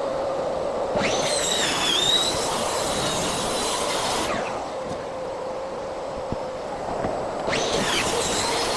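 A shop vacuum runs steadily while a power tool cuts into material twice, each spell lasting about three seconds (starting about a second in and again near the end), with a high, wavering squeal over the cut.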